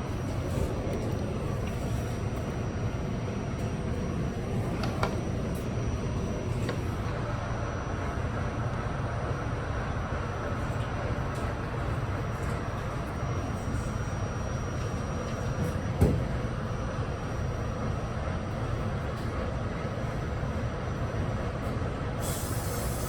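R68 subway car running on the rails, heard on board: a steady rumble of wheels and motors, with a sharp knock about two-thirds of the way through and a burst of air hiss near the end.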